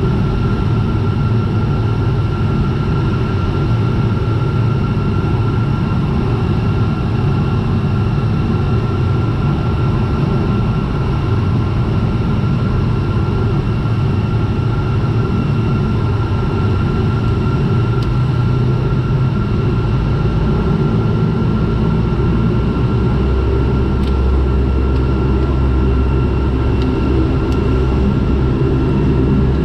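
Turboprop aircraft in flight: a steady engine and propeller drone with a constant high tone over a deep rumble, the rumble growing stronger about two-thirds of the way through.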